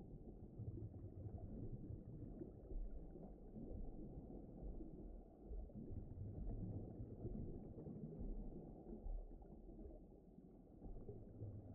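Deep underwater ambience: a low, muffled rumble that swells and ebbs, with no distinct events.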